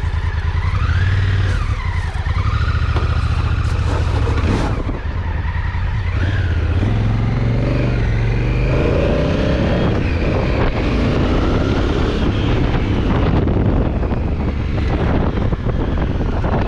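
Honda Africa Twin CRF1000L's 998 cc parallel-twin engine running loud while the bike is ridden, the engine note climbing in pitch as it accelerates a little past halfway.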